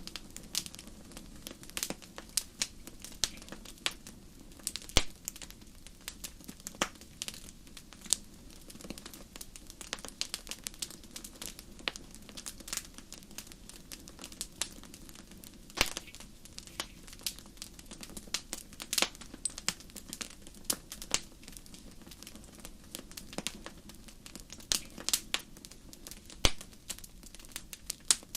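Wood campfire crackling: irregular sharp pops and snaps, some much louder than others, over a steady low background.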